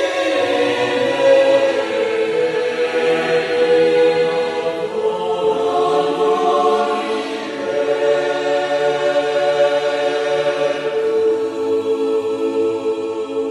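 Church choir singing in parts, holding long sustained chords that change only a few times.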